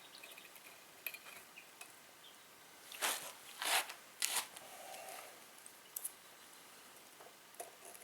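Light handling clicks, then three short rasping scrapes in quick succession a little past the middle.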